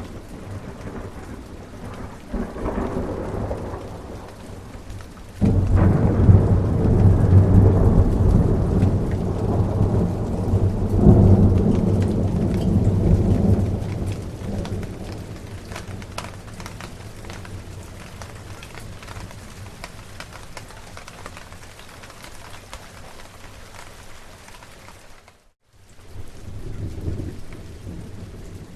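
Steady rain falling, with rolling thunder: a small rumble, then a loud deep rumble that sets in suddenly a few seconds in and dies away slowly over several seconds, and another rumble near the end. The sound drops out completely for a moment shortly before the last rumble.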